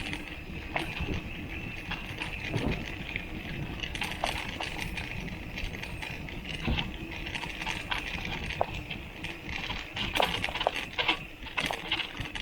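Mountain bike being ridden over rough ground, with a bottle cage rattling in quick, irregular clicks and knocks over the rumble of the ride.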